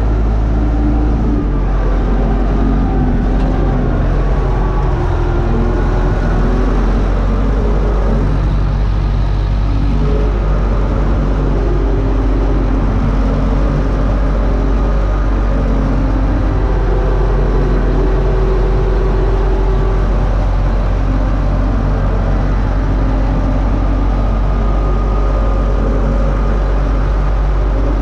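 U650 tractor's diesel engine running steadily under load, pulling a disc harrow; a constant, loud hum with no change in speed.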